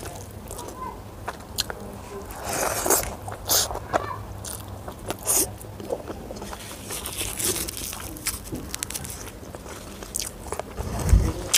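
A person chewing and crunching food close to the microphone, with fingers mixing rice on a plate, heard as many short wet clicks and crackly bursts. A dull low thump comes near the end.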